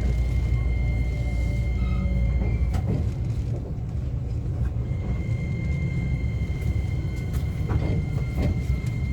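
JR West 125 series electric railcar heard from inside the car: a steady low running rumble with a thin high whine from its Toyo IGBT VVVF inverter drive. The whine drops out a few seconds in and comes back, and a few knocks are heard from the wheels.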